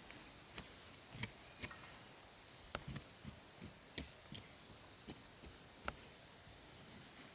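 Faint, irregular clicks and knocks, about a dozen scattered over several seconds, the sharpest about four seconds in.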